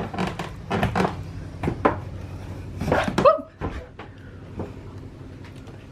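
A quick run of knocks and clunks, like a cabin door and fittings being handled inside a boat, fading after about three seconds. A woman's short rising "woo!" comes in about three seconds in.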